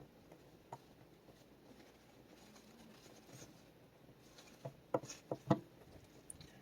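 Small clicks and taps of hands handling tools and parts: a single click about a second in, then a quick cluster of several sharper clicks near the end, over low room noise.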